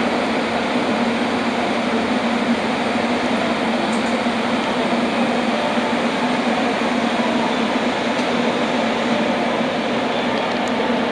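JR Kyushu limited express electric train at a station platform: a steady rushing noise with a low hum, and a few faint high clicks.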